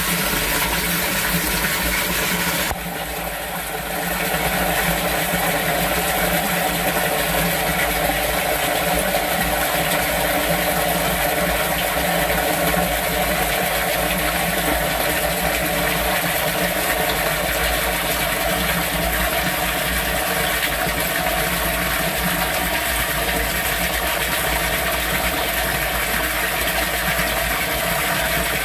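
Steady rush of storm water in an outdoor drainage and sump pump system, with a steady mechanical hum beneath it. The sound dips briefly about three seconds in, then carries on unchanged.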